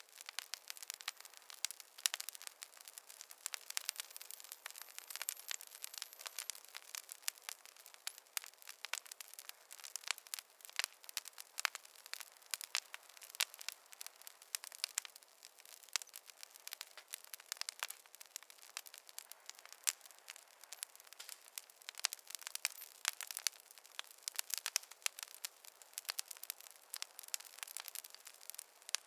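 Wood campfire crackling, with dense, irregular sharp pops and snaps.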